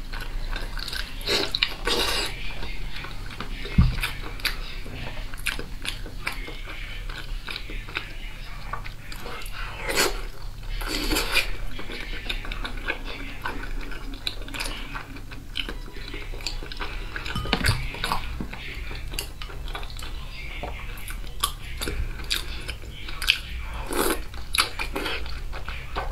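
Close-miked eating of braised pork with skin: wet chewing, biting and mouth smacks, with frequent short sharp clicks.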